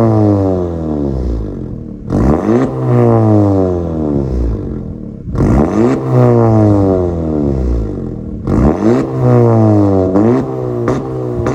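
Honda Civic FC engine revved in place through an aftermarket full exhaust system with valve-controlled (valvetronic) mufflers. There are about four sharp throttle blips, each with the pitch falling back over a couple of seconds.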